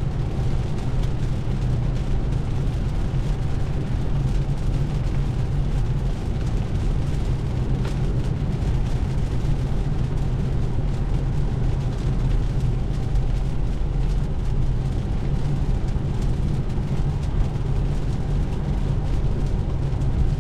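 Steady noise of heavy rain on a Tesla Model 3 electric car and its wet road, heard from inside the cabin, with no engine note and a deep rumble underneath.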